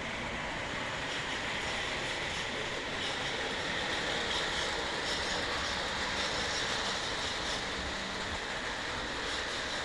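O gauge model train running on its track: a steady rolling and motor noise with faint regular clicking from the wheels.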